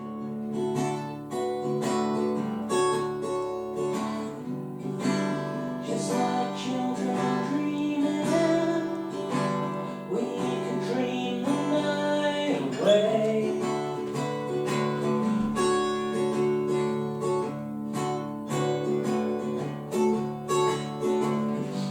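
Acoustic guitar music: plucked and strummed chords ringing on, with a sung or sliding melodic line briefly rising and falling in the middle.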